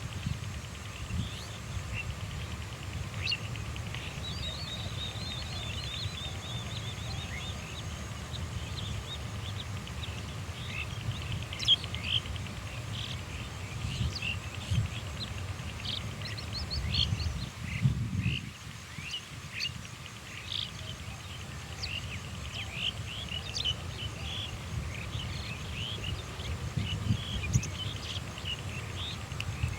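Birds chirping: many short, high-pitched calls scattered throughout, including a quick run of notes near the start, over a steady low rumble.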